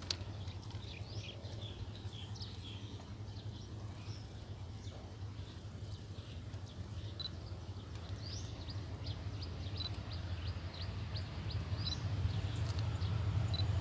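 Birds chirping over the low drone of a distant diesel train approaching, the drone growing steadily louder toward the end.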